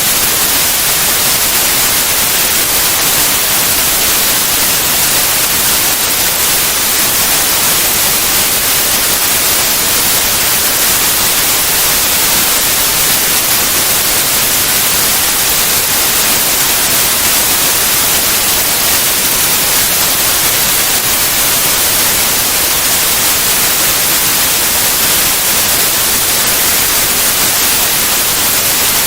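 Steady white noise: an even, constant hiss across all pitches, with no changes or breaks.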